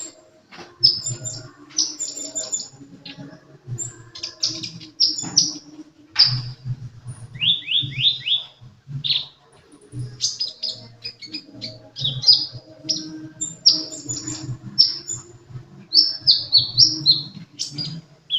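Sunbird (the Indonesian cage-bird 'kolibri') in full, nonstop song: quick clusters of high, sharp down-slurred chirps and trills, one after another with only short gaps.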